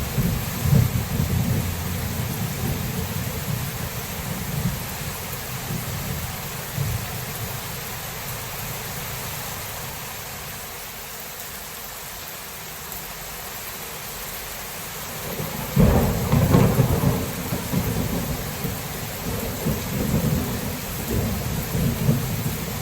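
Thunderstorm: steady rain hissing throughout, with thunder rumbling low at first and dying down in the middle. About two-thirds of the way in, a sudden loud thunderclap breaks and rolls on in heavy rumbling.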